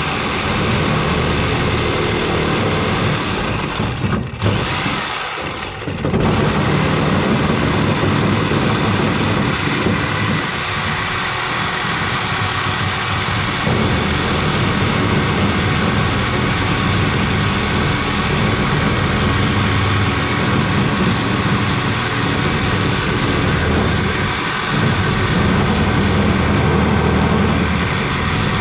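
A motor running loudly and steadily, with a brief break about four seconds in before it carries on.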